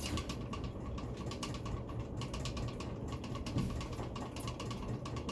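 Steady low hum of a running ceiling fan with a quick, uneven stream of light clicks over it.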